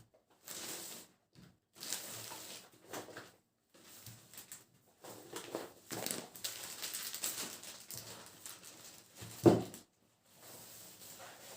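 Household objects being handled in a small room: short rustles and clatters with pauses between them, and one sharp loud knock about nine and a half seconds in.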